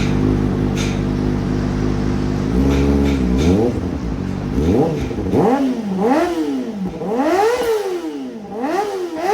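Kawasaki ZX-4RR's 399 cc inline-four with an aftermarket exhaust, held at steady revs for a couple of seconds and then blipped repeatedly, the revs rising and falling about once a second.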